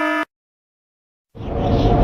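The last beep of a pulsed, buzzing alarm tone cuts off, followed by about a second of dead silence. Then a loud, rumbling noise swells in and keeps going.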